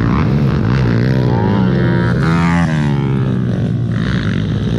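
Small motorcycle engines running, one of them revving up and easing back down about a second or two in.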